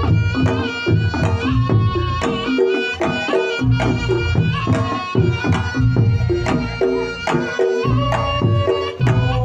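Reog Ponorogo gamelan playing the jathilan accompaniment: a reedy slompret melody over kendang drumming and repeating gong tones.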